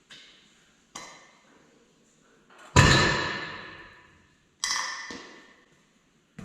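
Four sharp metal-on-metal clanks, each ringing out for about a second like struck steel. The third, about three seconds in, is the loudest.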